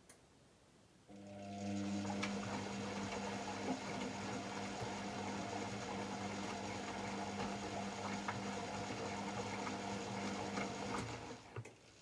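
AEG Lavamat L74810 washing machine running: a steady hum at one fixed pitch starts about a second in, with a soft click at the start, runs for about ten seconds and cuts off, followed by a couple of clicks.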